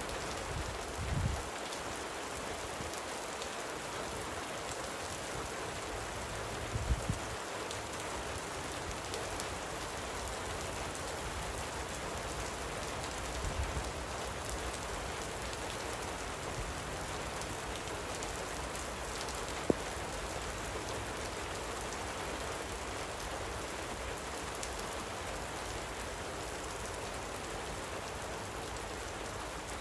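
Light rain falling steadily, an even patter of drops. A few soft low thumps come through, and there is one sharp click about two-thirds of the way in.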